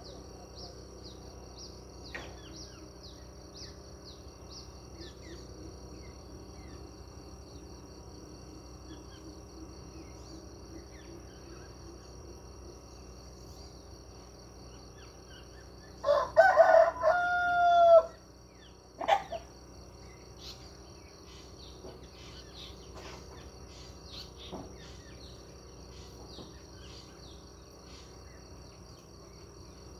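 A rooster crows once, for about two seconds, just past the middle, then gives a shorter call a second later. Small birds chirp faintly throughout over a steady high-pitched ringing.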